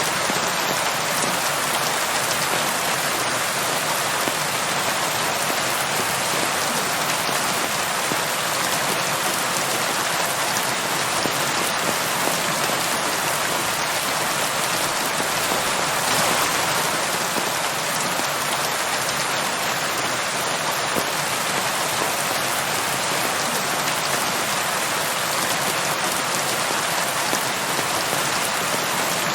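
Steady rain falling on a surface: a constant hiss with many fine drop patters, swelling slightly about halfway through.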